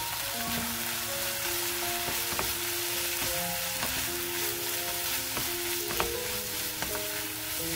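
Eggplant and pepper stir-fry sizzling in a nonstick pan while a wooden spatula stirs and scrapes it, with a few sharp knocks of the spatula, the loudest about six seconds in. Soft background music with a simple melody plays over it.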